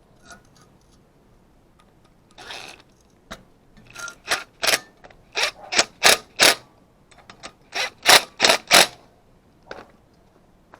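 A run of about a dozen short, sharp scraping strokes in quick succession, roughly three a second, a mechanical working sound.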